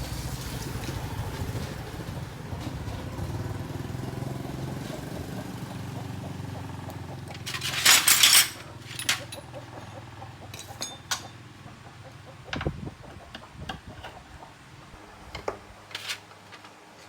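A small motorcycle engine runs steadily, then weakens and drops out near the end. About halfway through comes a short, loud hiss, followed by scattered metallic clinks and clanks of tools and parts.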